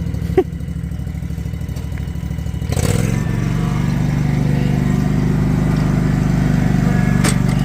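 Mower engine running at a low idle, then speeding up about three seconds in and holding steady at the higher speed; a sharp click just under half a second in.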